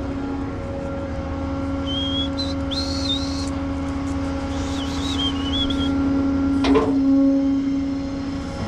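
Rollback tow truck's engine running steadily with an even hum. A high, wavering whistle comes twice in the first half, and there is a sharp click about seven seconds in.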